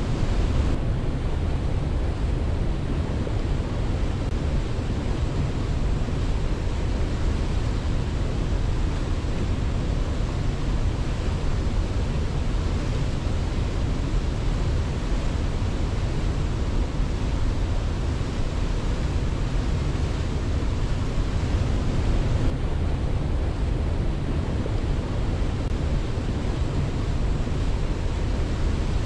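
Waterfall rushing steadily, an even wash of falling water heaviest in the low tones, with no pulse or swell.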